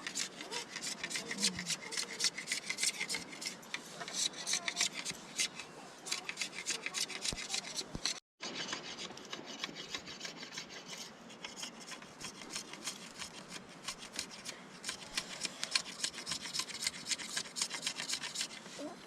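Rapid, repeated rasping scrapes, several strokes a second, cut by a brief dropout about eight seconds in.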